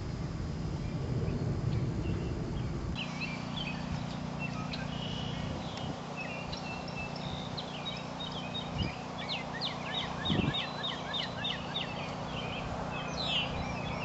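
Several songbirds chirping and calling in trees, starting about three seconds in, with a quick run of short falling notes about two thirds of the way through. A steady low hum lies underneath, and a low rumble comes before the birds.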